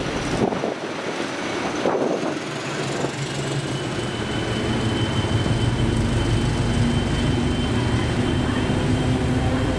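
A train running close by, growing louder about four seconds in, with a low engine or motor note and a faint steady high whine.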